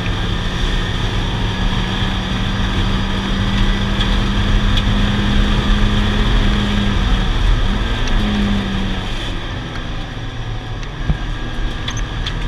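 Mazda Miata race car's four-cylinder engine running hard at a steady high pitch, heard inside the cabin with wind and road noise. About seven seconds in the note wavers, and about nine seconds in it drops away.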